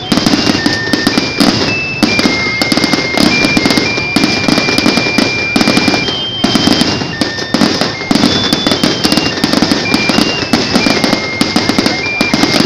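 Fireworks display: aerial shells bursting in a fast, continuous run of bangs and crackling. A thin, high tune of held notes that step up and down in pitch plays through it.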